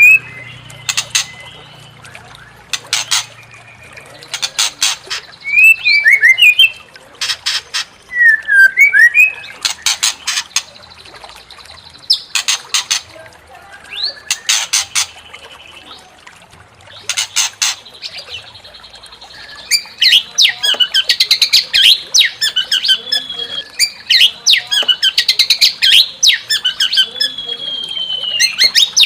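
White-rumped shama (murai batu) song: runs of short, harsh rasping notes alternating with whistled phrases. About two thirds of the way through it breaks into a fast, dense run of varied whistles and trills.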